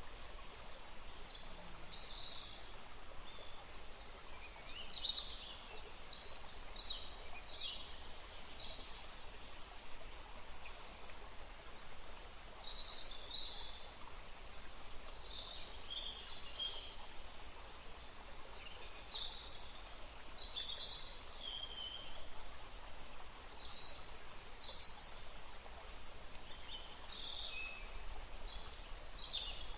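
Several songbirds chirping and calling in short high-pitched phrases, in clusters throughout, over a steady rushing background of wind in trees and running water.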